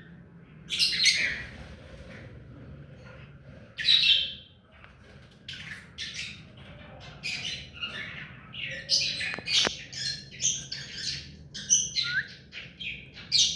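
Ring-necked parrot calling: two loud, harsh squawks in the first few seconds, then a quick run of short chirps and squawks, several a second, for the rest.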